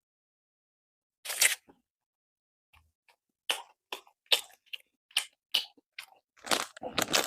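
Crusty bánh mì baguette crunching as it is bitten and chewed: one crunch about a second in, then a run of short crunches from about three and a half seconds that grows denser near the end.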